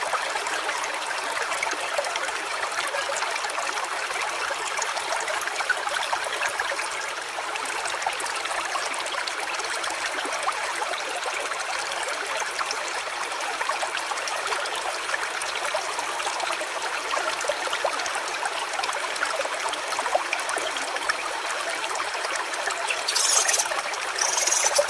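A stream running steadily, its water trickling without a break. Two short high-pitched sounds come near the end.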